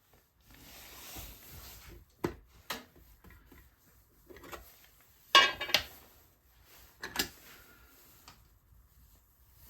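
A few sharp knocks and clatters of hard objects being handled, the loudest a short rattling cluster about halfway through, with a last knock a little later.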